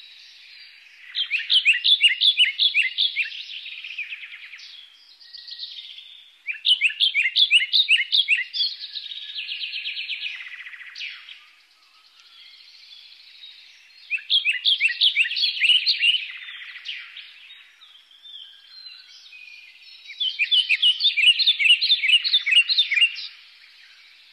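A songbird singing: four bouts of quick, repeated chirping notes, each lasting about two seconds, several seconds apart, with fainter twittering between them.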